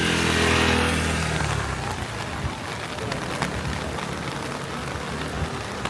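A motor vehicle passing close by on the rain-soaked street, its engine fading away within the first two seconds, then steady rain.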